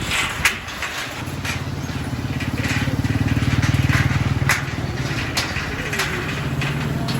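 Motorcycle engine running under load, growing louder for the first few seconds and then easing back, with scattered sharp knocks and crunches over it.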